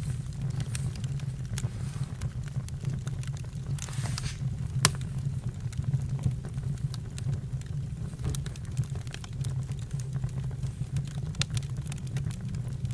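Campfire burning: scattered crackles and snaps over a steady low rumble, with one sharper pop about five seconds in.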